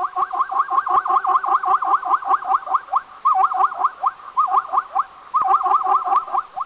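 An animal calling with rapid, repeated rising chirps, about five a second, in runs broken by short pauses.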